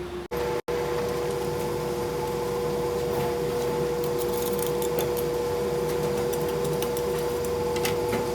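A workshop machine running steadily with a constant whine. The sound drops out twice, very briefly, just before the whine sets in.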